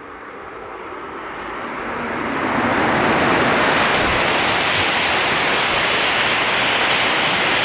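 Shinkansen high-speed train approaching and rushing past at speed, a wind-like rush of air and wheel noise that builds over about three seconds and then holds steady and loud.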